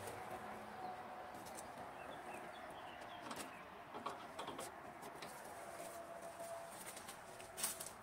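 Faint bird calls: low held notes that come and go, a few faint high chirps, and scattered light clicks and taps, the sharpest near the end.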